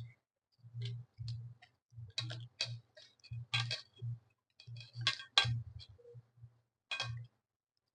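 Close-up chewing and mouth smacking while eating rice and paneer curry: an irregular string of sharp, wet clicks, with a few louder smacks.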